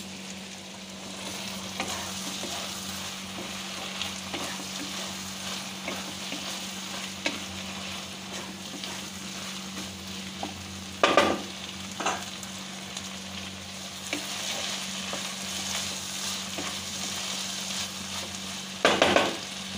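Kochur loti (taro stolons) and chopped prawns frying in a wok over raised heat, sizzling steadily while a spatula stirs them. The spatula knocks against the pan now and then, loudest twice, about halfway through and near the end.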